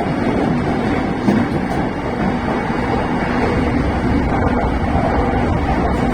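Cabin noise of a JR Keiyo Line rapid train running between stations: a steady rumble of wheels on rails with a low hum.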